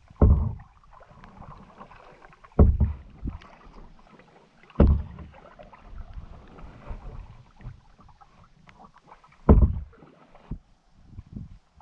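Canoe being paddled: heavy paddle strokes with splashing and low knocks, the loudest four coming a few seconds apart, smaller ones between.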